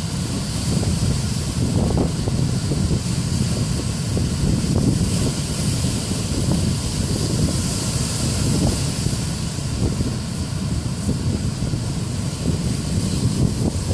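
Strong wind buffeting the microphone in a steady, gusting low rumble, over the even hiss of surf.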